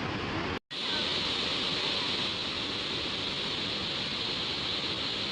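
Steady rush of a large waterfall's falling water. It cuts out for a split second about half a second in, then carries on unchanged.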